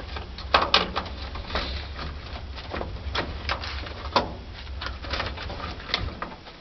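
Irregular plastic clicks, knocks and scrapes as a humidifier's water line fitting is worked off the top of its panel casing, over a steady low hum.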